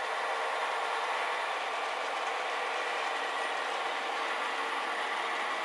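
O-gauge model train running steadily on track: a continuous mechanical rolling and gear noise.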